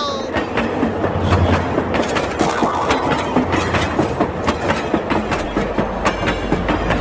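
Train running on rails, its wheels making a dense, continuous clickety-clack rattle over a low rumble.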